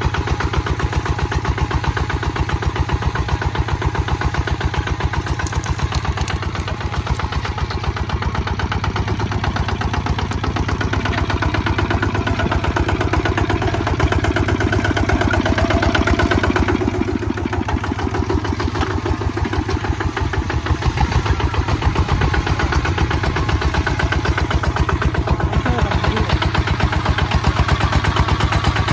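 Single-cylinder Kubota ZT155 DI diesel engine of a walking tractor running steadily with a rapid, even chugging beat, working while plowing. The tone shifts briefly about halfway through.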